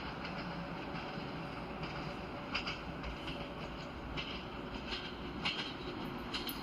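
Săgeata Albastră Siemens Desiro diesel multiple unit running on the track: a steady running noise with sharp clicks about one or two times a second.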